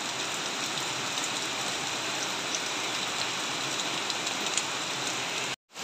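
Heavy rain falling steadily, an even hiss without pauses, that cuts off suddenly near the end.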